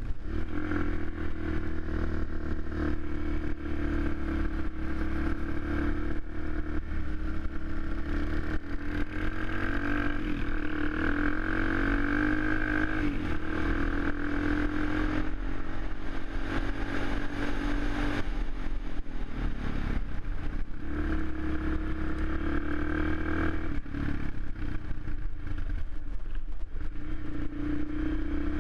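Suzuki LTZ 400 quad's single-cylinder four-stroke engine running under changing throttle, its pitch rising and falling and dropping back about two-thirds of the way through.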